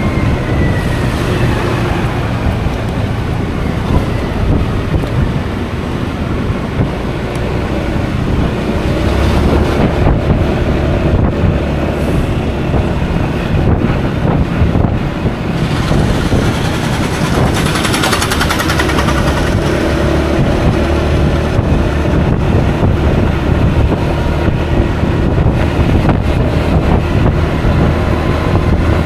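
Wind rushing over the action camera's microphone while riding a Honda Forza 350 scooter, with the engine and road noise underneath. A brief louder rush of hiss comes a little past halfway.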